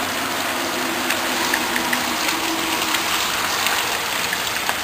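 Heavy rain falling steadily, spattering on wet ground and puddles.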